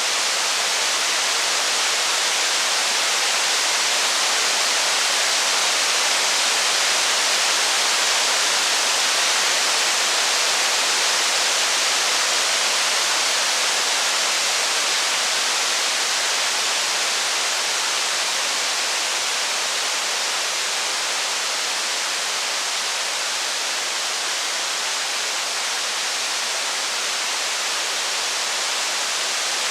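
Steady rain, an even bright hiss that holds at one level, with no distinct drops, crackles or thunder standing out.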